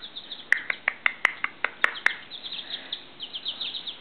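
Young chickens peeping: a run of short, sharp peeps in the first half, then a quick flurry of higher, softer chirps in the second half.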